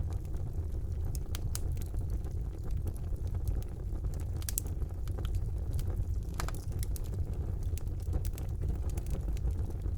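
Wood fire burning in a fireplace: a steady low rumble of the flames with irregular sharp crackles and pops, a few louder ones scattered through.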